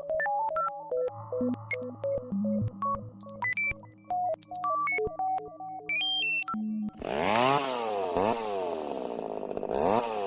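Electronic synth music of short stepping beeps, then about seven seconds in a high-revving motorcycle engine cuts in suddenly, its pitch sweeping up and down several times as it revs.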